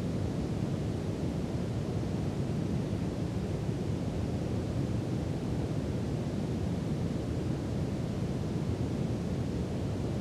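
Steady brown noise: a constant, deep rushing hiss, strongest in the low end, that does not change.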